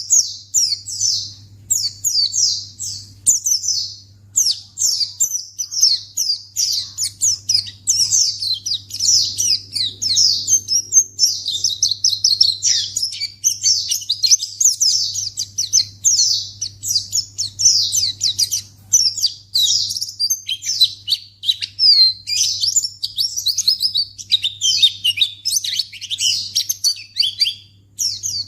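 White-eye (pleci) singing a continuous, rapid, high-pitched twittering song made of quick downward-sweeping chirps. A faint steady low hum runs underneath.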